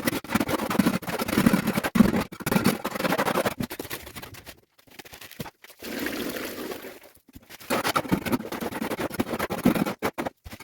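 Gritty scraping of a shovel or trowel working wet concrete mix, in several stretches that cut off suddenly.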